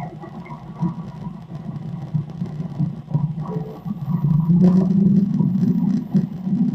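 Low, steady engine drone from a played-back recording, growing louder about four and a half seconds in.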